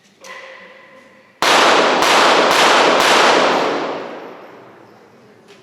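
.22 Short rapid fire pistol fired in quick succession: four sharp shots about half a second apart, each ringing out in the hall's reverberation. The series stops short of the full five shots, and a malfunction is called.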